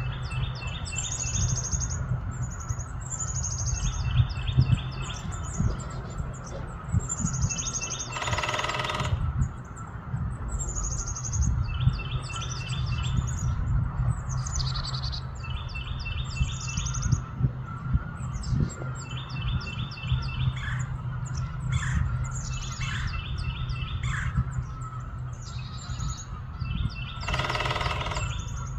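Woodpecker drumming on a metal gutter twice, each a burst of about a second of rapid ringing strikes, about eight seconds in and again near the end. This is territorial drumming to attract a mate. A bird repeats a short chirping phrase about every two seconds throughout, over a low steady hum.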